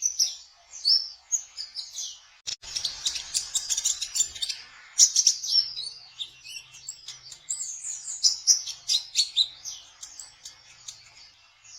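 Kolibri ninja sunbird singing its 'trotol' song, a dense, fast run of high, thin chirps and trills. About two and a half seconds in there is a single sharp click.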